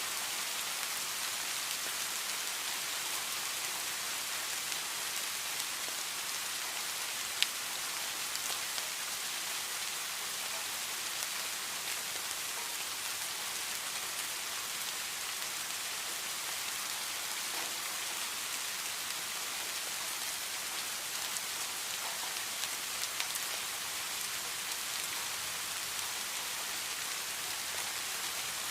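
Heavy rain falling steadily, an even hiss with scattered drop taps and one sharp drip about seven seconds in.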